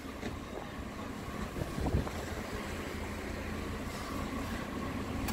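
2009 Ford Fiesta 1.4's engine idling steadily, heard from beside the car, with wind rumbling on the microphone and a couple of soft knocks about two seconds in.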